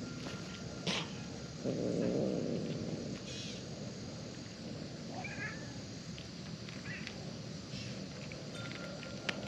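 Domestic cat sounds, with a few sharp clicks, a louder grainy stretch about two seconds in and a short chirp about five seconds in.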